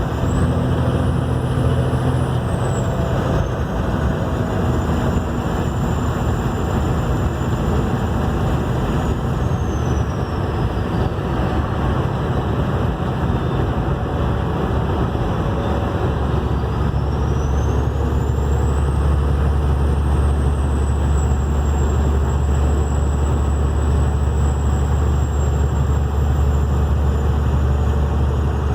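Vehicle engine with compound turbochargers running under way: a steady low engine drone with a high, thin turbo whistle over it. The whistle holds its pitch, sinks about ten seconds in, then rises again past halfway and stays high, drifting slowly lower near the end, while the drone grows louder.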